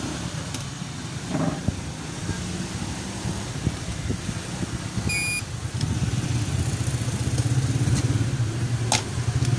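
A steady low engine-like rumble that grows louder in the second half, with a short high beep about five seconds in and a few faint clicks.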